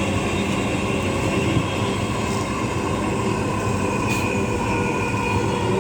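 Dhaka Metro Rail electric train running between stations, heard from inside the carriage: a steady rumble of the wheels on the track with several steady whining tones through it.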